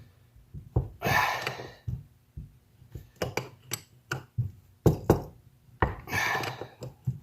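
Small metal carburetor parts clinking and knocking on a workbench as a lawn tractor's carburetor is taken apart: a string of sharp knocks of varying loudness, with two short stretches of rustling, about a second in and again near six seconds.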